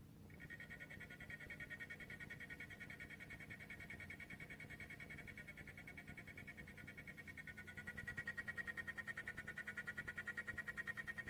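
ELEGOO Centauri Carbon CoreXY 3D printer's stepper motors whining while printing, a high pitched tone pulsing rapidly and evenly as the print head moves back and forth; it grows louder about eight seconds in.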